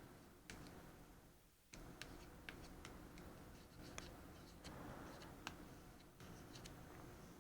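Faint scraping and scattered light ticks of a tool working solder paste into the holes of a reballing stencil.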